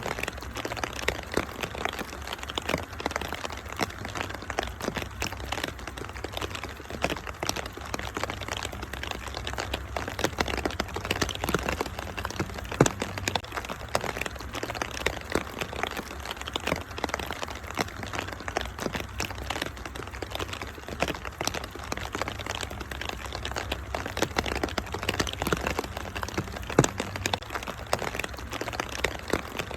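Wood fire crackling, with many irregular sharp pops and snaps over a steady hiss of rain and a low rumble.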